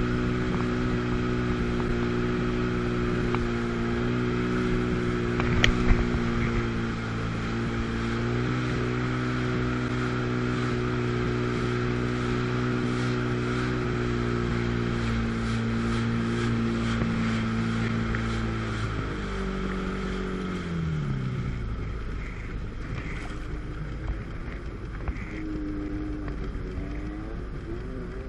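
Two-stroke jet ski engine running at a steady speed, then letting off about two-thirds of the way through: the pitch falls as the engine drops to a low run.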